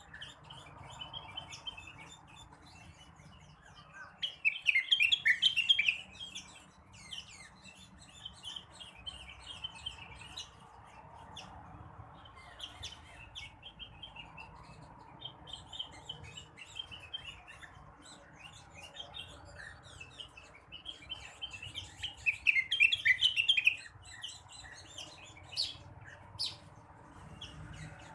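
Leafbird singing: ongoing soft twittering with two loud bursts of rapid, chattering song, one a few seconds in and another near the end.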